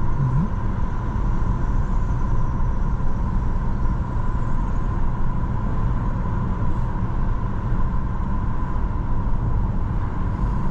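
Steady road and tyre noise with engine hum inside a moving car's cabin, carrying a thin steady high tone throughout.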